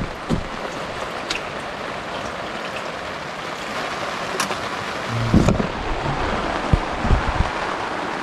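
Heavy rain falling steadily, an even hiss, with a few low thumps about five seconds in and again near the end.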